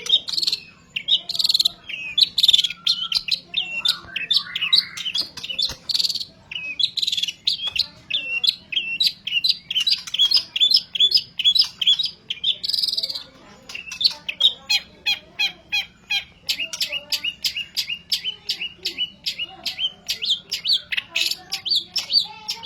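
Long-tailed shrike singing without pause: a fast, loud stream of sharp chirps and varied phrases, filled with songs mimicked from other birds.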